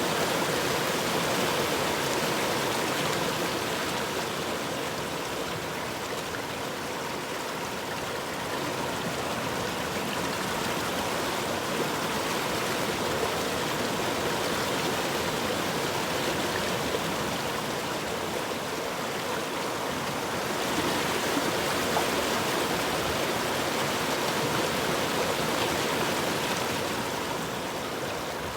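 River water flowing steadily, an even rush with no break, swelling a little about twenty seconds in.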